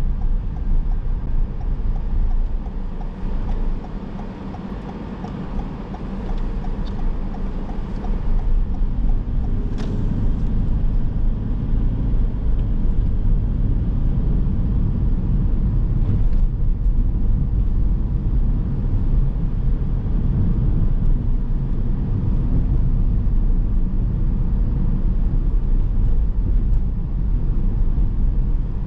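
Car driving on town streets: steady road and engine rumble, dropping lower for a few seconds near the start, then louder again and steady.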